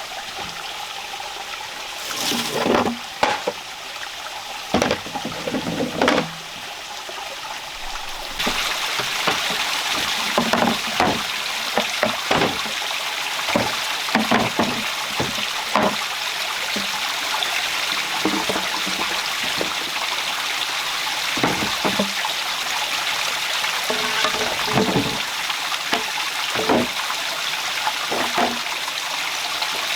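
Steady rain hiss with scattered knocks and thumps throughout. The rain noise jumps louder suddenly about eight seconds in.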